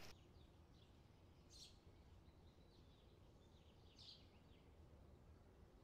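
Near silence: faint outdoor background hum with a few faint, short bird chirps, two of them a little stronger.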